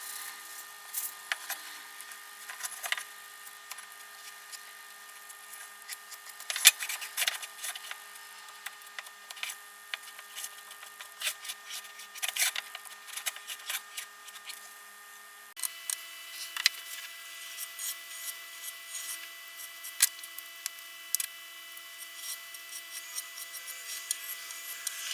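Hand tool work on small parts: scraping and rubbing strokes with sharp clicks and taps at irregular intervals. The background changes abruptly about two-thirds of the way through, where one shot cuts to the next.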